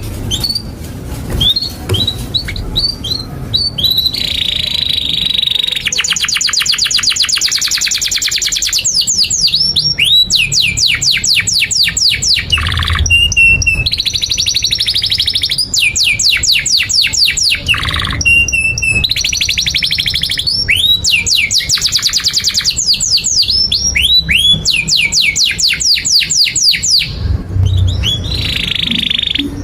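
Domestic canary (kenari) singing a long, continuous song: fast trills of rapid repeated notes alternating with rising sweeps and short buzzy notes, with only brief pauses.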